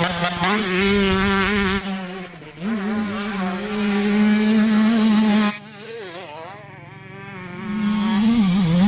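Motocross dirt bike engine running at high revs with a high buzzing drone of steady pitch. It dips briefly about two seconds in, drops quieter about five and a half seconds in, and builds back up near the end.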